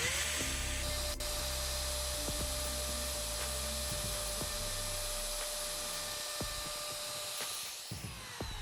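Electric woodworking router spinning up to speed, running with a steady high whine, then winding down with a falling pitch near the end.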